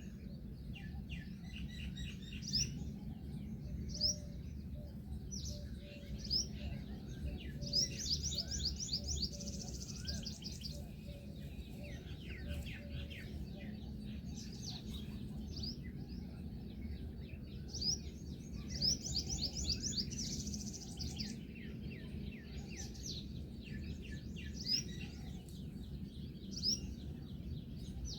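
Small birds chirping and calling: short high notes scattered throughout, with quick trilled runs of repeated high notes several times, over a steady low background rumble.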